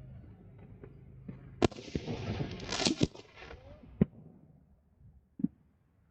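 Aerial fireworks going off: a sharp bang, then a cluster of bangs with crackling around the middle, another bang, and a fainter report near the end.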